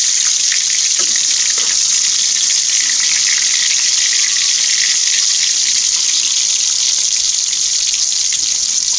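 Mussel meat frying in hot oil in a wok, a steady sizzle with faint crackles.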